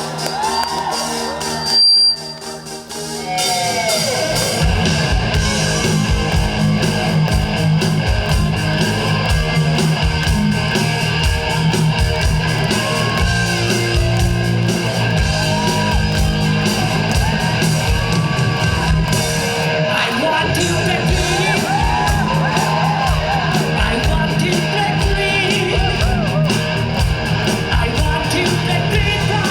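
Live rock band playing loud, with the crowd audible. A brief loud burst comes about two seconds in, and the full band with a steady drum beat comes in about a second and a half later.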